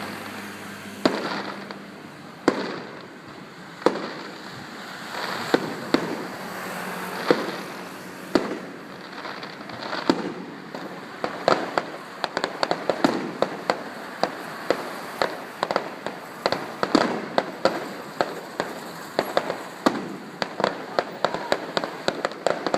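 Fireworks display: aerial shells bursting with single loud bangs every second or two, then a dense, rapid barrage of cracks and bangs from about halfway through.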